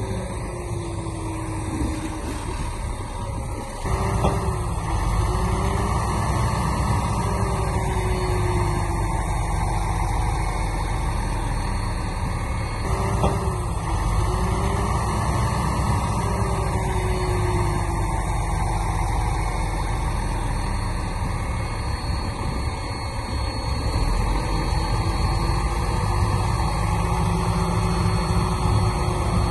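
Heavy diesel earthmoving machinery running steadily under load, with a deep engine sound that gets louder about four seconds in. A recurring wavering whine and a couple of short clanks sound over the engine.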